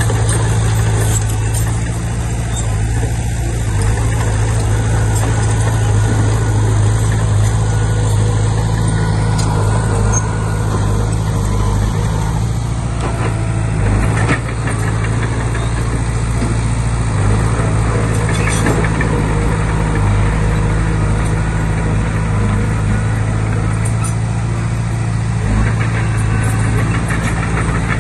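Komatsu D20P bulldozer's diesel engine running steadily at an even pitch, with a few short knocks from the machine partway through.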